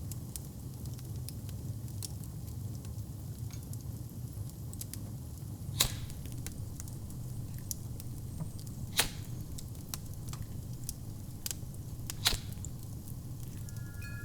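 Wood fire burning in a fireplace: a steady low rumble with frequent small crackles and three louder pops, at about six, nine and twelve seconds in. A wind chime starts ringing near the end.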